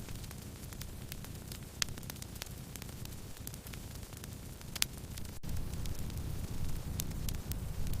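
Wood fire crackling: scattered sharp pops and snaps over a low steady rumble, with two louder pops about two and five seconds in.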